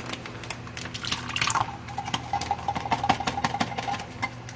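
Canned El Pato sauce being poured out of the can onto cooked chicken: a wet pouring sound with light clicks and taps of the can.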